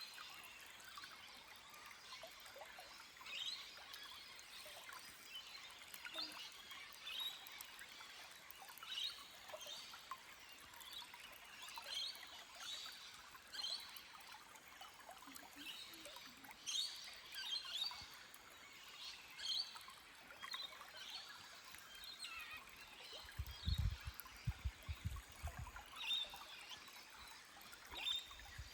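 Many birds chirping in short calls over a faint trickling forest stream. A few low thumps come near the end.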